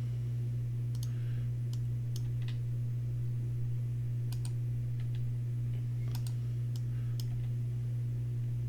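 Scattered clicks of a computer mouse and keyboard, about a dozen spread irregularly, over a steady low electrical hum.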